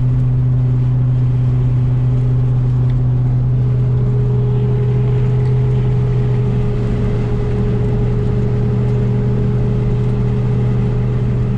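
Twin-turbo 5.4-litre V8 of a 1998 Saleen Mustang cruising at a steady engine speed, heard from inside the cabin as a steady low drone that holds the same pitch throughout.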